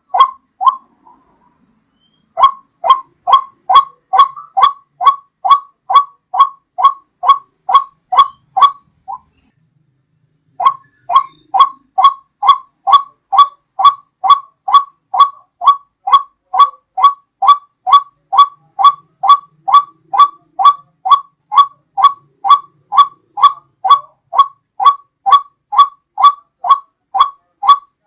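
White-breasted waterhen (ruak-ruak) lure call: short, clear, loud notes repeated about two a second in a long series, breaking off briefly about a second in and again for about a second and a half around nine seconds in.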